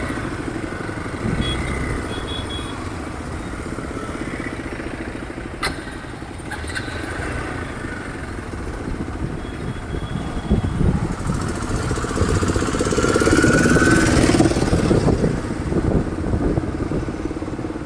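Motorcycle engine running while riding, with road and wind noise; it gets louder about two-thirds of the way through, and there is a sharp click near the middle.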